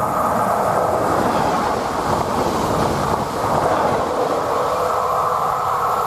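Passing train: a loud, steady rolling noise of wheels on rail.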